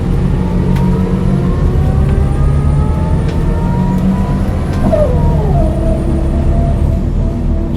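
Scania DC9 9-litre six-cylinder diesel of a 2001 Scania L94UB bus pulling under acceleration: the engine note rises steadily, drops sharply at an automatic upshift of the ZF 4HP-500N gearbox about five seconds in, then pulls on and climbs again.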